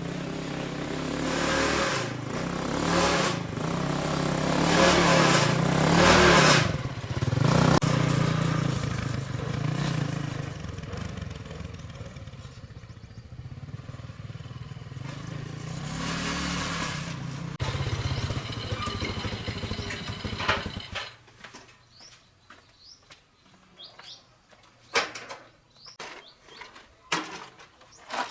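Motorcycle engine running, with several revs in the first seven seconds, then settling to a steady run until it cuts off suddenly about twenty seconds in. Afterwards, a few light knocks and faint bird chirps.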